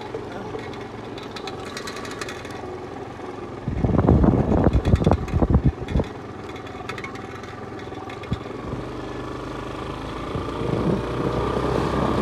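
A steady mechanical hum like an engine running, with a louder, rough rumbling stretch of about two seconds in the middle, and the hum growing louder near the end.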